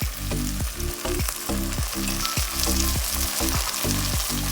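Onion, ginger, green chilli and garlic masala sizzling in hot oil in a pan while being stirred, a steady frying hiss.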